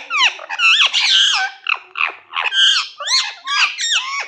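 Pet parrot chattering: a fast unbroken run of shrill chirps and squawks, most sliding down in pitch.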